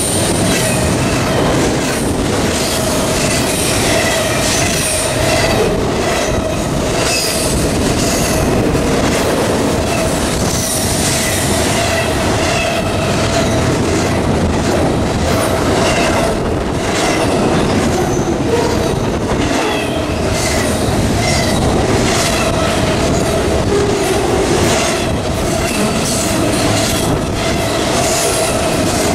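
Double-stack intermodal freight cars of a CSX train passing close by at speed: a steady loud roll of steel wheels with frequent clicks over rail joints, a held hum, and intermittent high-pitched wheel squeal.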